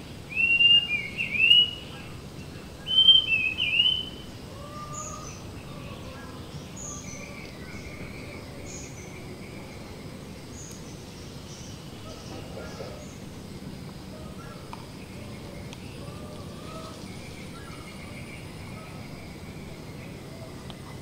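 Birds calling: two loud whistled phrases in the first four seconds, then fainter scattered chirps and calls over a steady background hiss.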